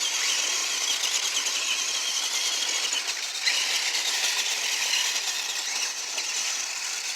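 Small electric motors and gears of remote-control monster trucks whirring steadily as the trucks are driven.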